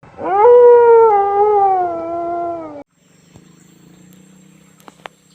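One long animal howl that rises quickly, then slides slowly down in pitch, and is cut off suddenly about two and a half seconds in; after it, a faint steady hum with a few sharp clicks.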